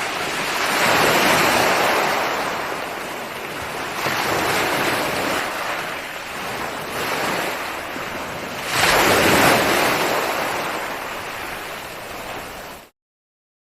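Ocean waves breaking on a shore in a series of surges, the loudest about a second in and about nine seconds in, then the sound cuts off suddenly near the end.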